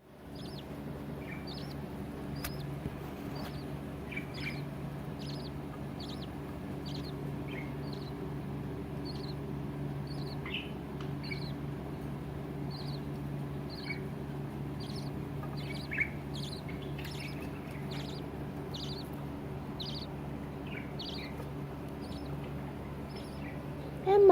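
Budgerigar chirps, short and high, repeating about once or twice a second over a steady low hum.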